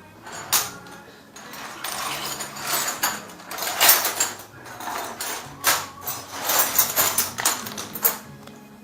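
Irregular mechanical clicking, rattling and scraping of bicycle parts being worked on by hand.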